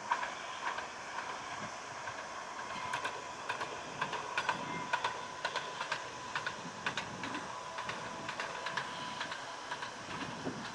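Low-floor tram-train running, a faint steady whine under many sharp, irregular clicks.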